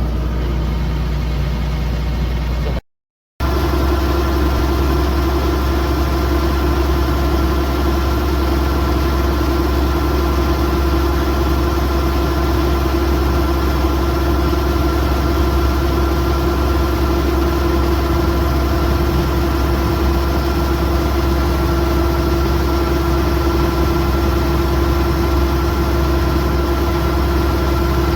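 Kubota DC108X combine harvester's diesel engine and machinery running steadily. The sound drops out abruptly for half a second about three seconds in, then the machine runs on with a steady hum and a higher whine above it.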